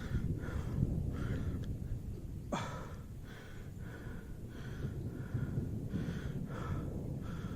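A person breathing hard in short, regular breaths, panting from the exertion of a steep climb, over a low rumble. A brief sharp falling sound cuts in about two and a half seconds in.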